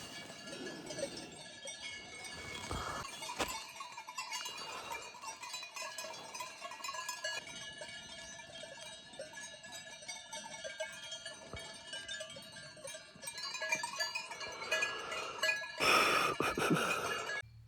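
Many livestock bells of a grazing herd clanking and ringing together at several pitches, with a louder burst near the end.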